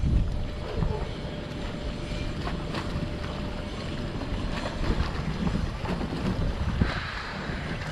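Wind buffeting the microphone as a heavy, uneven low rumble, with scattered small knocks and clicks throughout.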